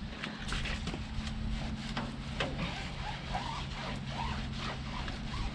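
A wash mitt and scrubber working Jif cleaner over a truck tyre and rim in irregular rubbing strokes, over a steady low mechanical hum.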